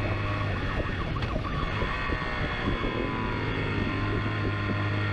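Police car driving at speed in a chase, its engine running with a siren sounding.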